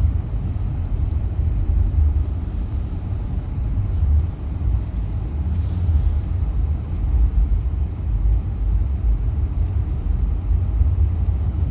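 Road vehicle driving steadily: a continuous low rumble of engine and tyres with no sharp events.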